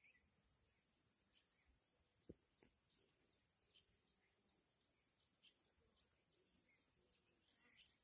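Faint, scattered high chirps of small birds, with one soft thump about two seconds in.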